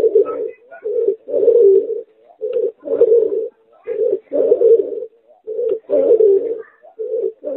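Pigeon–spotted dove hybrid cooing: a run of short, low coos, about ten in a row with brief pauses between them.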